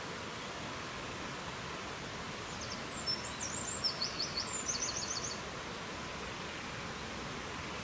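Steady rushing wind noise, with a songbird singing one short phrase of quick, high notes and trills that starts about two and a half seconds in and lasts about three seconds.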